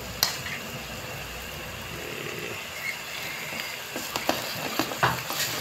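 Curry spice paste sizzling in hot oil in a cooking pot, a steady hiss. A utensil clicks against the pot just after the start, and a few light taps come between four and five seconds in.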